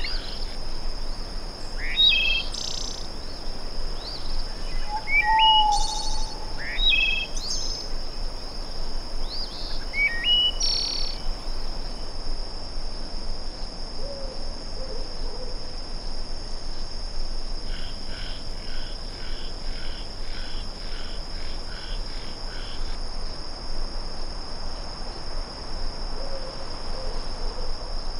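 Night nature soundscape of frogs, birds and insects over a steady hiss of flowing water: a continuous high insect drone, birds calling with short rising chirps for the first ten or so seconds, a few low short calls, and a rapid pulsing trill for about five seconds in the second half.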